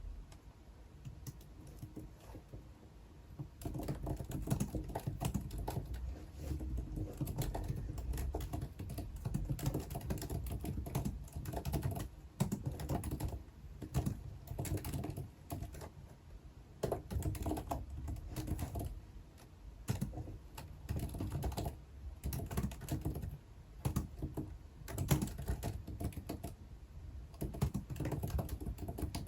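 Typing on a computer keyboard: rapid runs of key clicks in bursts with short pauses, starting a few seconds in.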